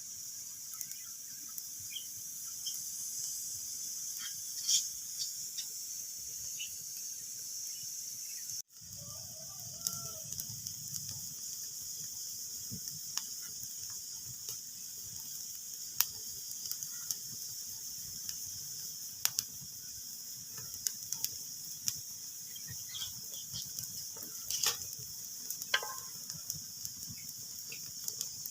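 Wood fire crackling in a fireplace: a steady hiss with scattered sharp pops and snaps. The sound cuts out for an instant about nine seconds in.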